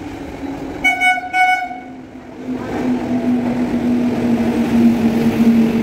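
A WAP7 electric locomotive sounds two short blasts on its air horn about a second in. The express train then runs in close at speed, its rumble on the rails growing louder along with a steady low hum.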